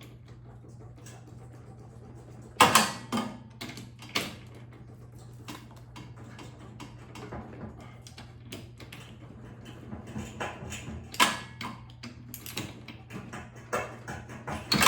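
Scattered metallic clicks and knocks of a spark plug and hand tools being worked back into a snowblower's aluminium cylinder head, the loudest about two and a half seconds in, over a faint steady hum.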